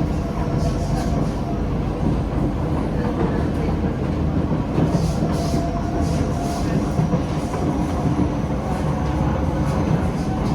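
SMRT C151B metro train running between stations, heard from inside the car: a steady rumble of wheels on the rails with a faint steady tone. Light clicks come and go, most of them about halfway through.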